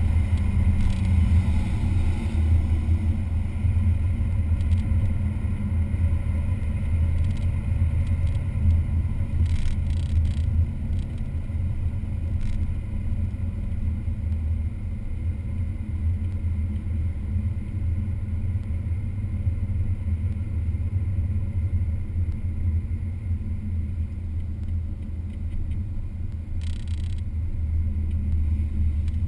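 Car engine running steadily with a deep, even rumble, its pitch holding level with no revving up or down.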